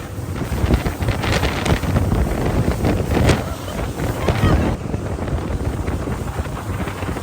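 An outboard-powered dinghy running fast across open water: wind buffeting the microphone heavily over rushing water and spray from the hull, uneven and gusty.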